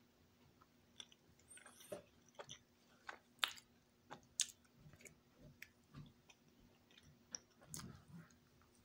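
A person chewing and biting a peanut butter sandwich close to the microphone: irregular short mouth clicks and smacks, the sharpest about three and a half and four and a half seconds in.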